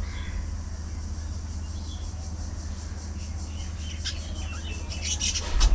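Budgerigars chirping, faint at first, then a louder flurry of chirps near the end, over a steady low rumble, with a low thump right at the end.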